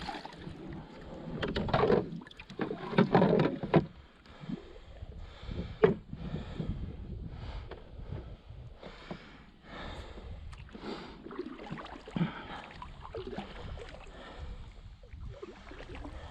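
Kayak paddle strokes swishing and dripping in the water, roughly one a second. The first few seconds are louder and more uneven.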